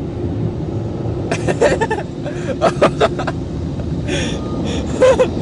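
Automatic car wash air-dryer blowers running steadily, heard from inside the car, with a few short voice fragments over the blowers.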